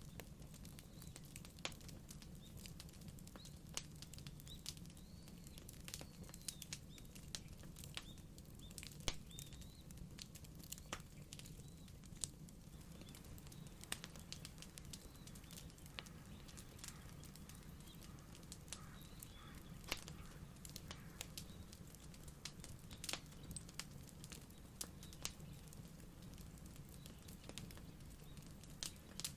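Wood fire crackling: irregular sharp pops and snaps of burning wood over a low, steady rumble.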